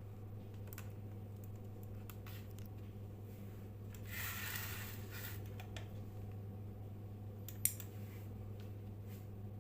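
A steady low hum runs under a few small scattered clicks, with a short scraping rustle about four seconds in.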